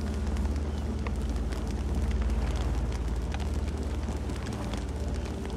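Campfire burning: a steady low rumble with many scattered sharp crackles and pops.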